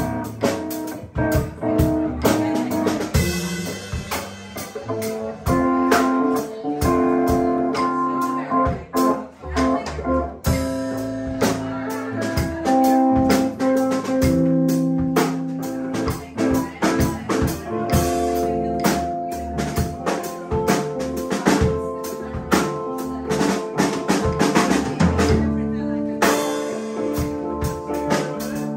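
Live band playing an instrumental stretch: a drum kit keeping a steady beat under guitar, with held melody notes changing every second or so.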